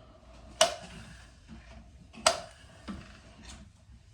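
Flat-iron hair straightener's plates clicking shut: two sharp clicks about a second and a half apart, then a couple of fainter ones.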